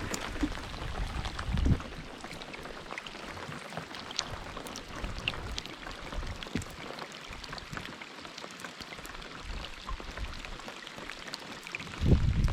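Rain falling on lake water and a kayak: a steady hiss of rain with many small drop ticks. A low rumble comes briefly near the start and again, louder, just before the end.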